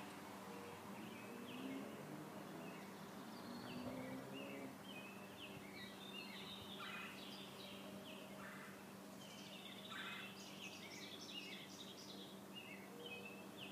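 Birds chirping faintly: many short, irregular calls, thickest in the second half, over a steady low hum.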